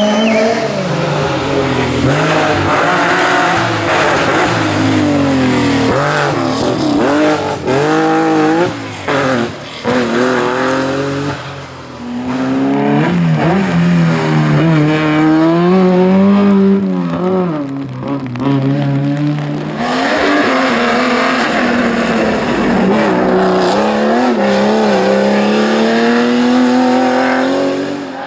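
Historic rally cars driven hard on a special stage: the engines rev high, then drop back repeatedly with gear changes and lifts for corners, one run after another.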